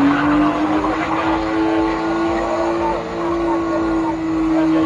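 Car engine held at high, steady revs, its pitch creeping slightly upward and then holding, with voices over it.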